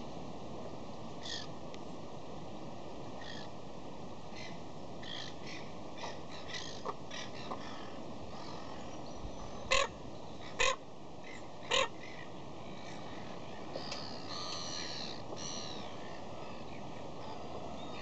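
Birds calling over a steady background hiss: three short, harsh, caw-like calls about a second apart midway through, with scattered small chirps and a burst of twittering a few seconds later.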